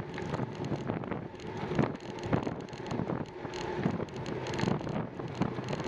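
Wind buffeting the microphone while cycling: a steady, gusty rushing noise with frequent short thumps.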